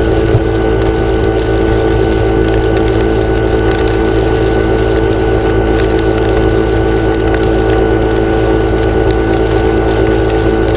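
A motor-driven machine running steadily with a constant hum.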